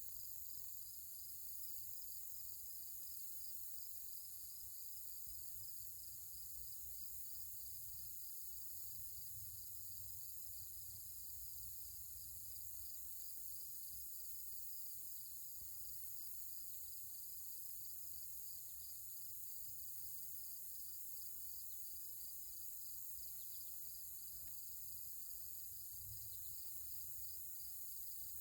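Insects chirping in a fast, steady, evenly repeating pulse over a constant high insect hiss, with a low rumble underneath.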